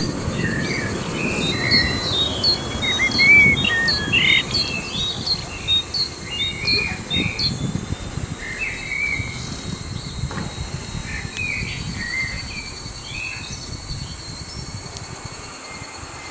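Many small birds chirping and twittering, busiest in the first half and thinning out in the second, over a steady low outdoor rumble.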